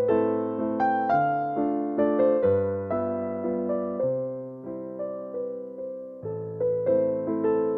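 Slow, gentle piano music: soft chords struck about once a second, each note ringing and fading before the next.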